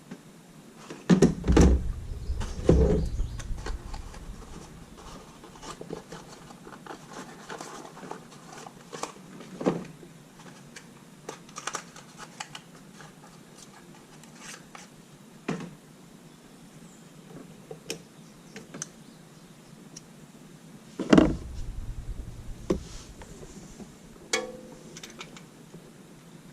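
Scattered clicks and knocks of tools and parts being handled, with two bursts of heavy thumps: one a second or two in and another about three-quarters of the way through.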